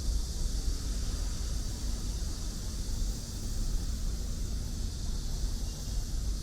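Steady outdoor city ambience on a walk: a low rumble with an even high hiss above it, without clear single events.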